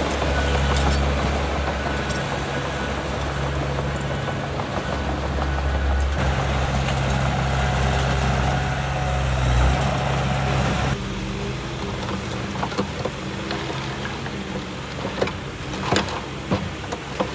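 Diesel engine of heavy earthmoving machinery running steadily. About eleven seconds in the sound changes abruptly and gets quieter, and a few sharp knocks follow near the end.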